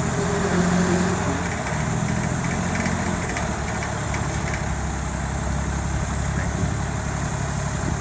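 A motor vehicle's engine running steadily at idle, a low rumble under a steady wash of street noise, slightly louder about a second in.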